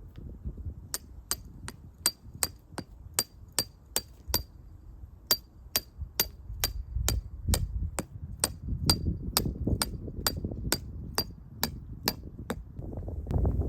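A long run of sharp metallic taps, two to three a second with a short pause about halfway, over a low rumble.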